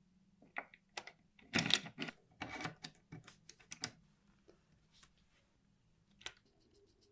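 Rapid clicking and light clattering of small metal parts, bunched together over about three seconds, then a single click near the end.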